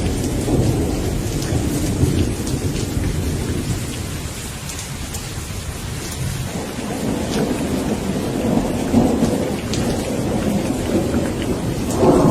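Thunderstorm: steady rain falling, with rolling thunder underneath. The rumble eases off in the middle, builds again, and a louder roll of thunder sets in near the end.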